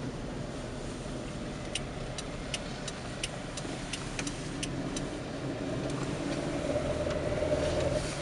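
Car driving on a snowy road, heard from inside the cabin: steady engine and road noise, with a run of quick, evenly spaced ticks, about three a second, in the middle. Near the end the engine note rises and grows louder as the front-wheel-drive car accelerates in a try at fishtailing.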